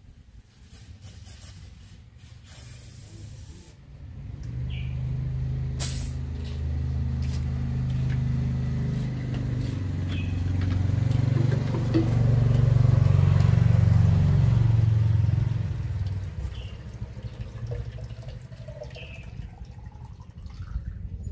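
Low engine drone that builds about four seconds in, is loudest shortly past the middle, and fades away a few seconds later, like a motor vehicle passing. A few short bird chirps are heard over it.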